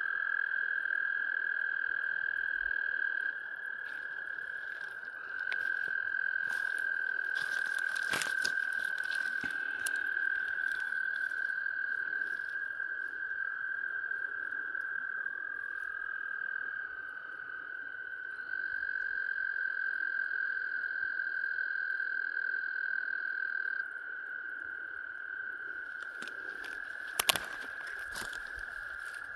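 Frogs calling in long, steady trills that stop, restart and overlap, with a second, lower-pitched trill joining for a few seconds midway. A few sharp clicks, the loudest near the end.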